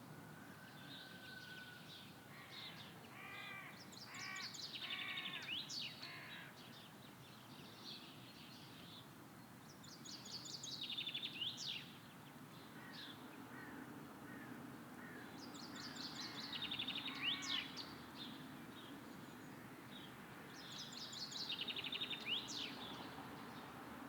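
Songbirds singing: one bird repeats the same fast trilled phrase about every six seconds, with shorter chirps and calls from other birds between, over a faint steady low hum.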